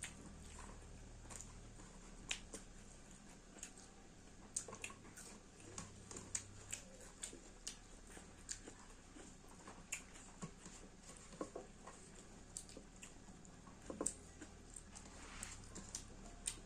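Faint close-up eating sounds: irregular wet smacks and clicks of mouths chewing chicken, a few of them sharper.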